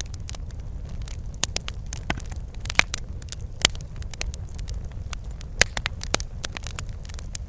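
Wood fire crackling in a fireplace: irregular sharp pops and snaps over a steady low rumble of the burning, with a few louder pops about three, three and a half and five and a half seconds in.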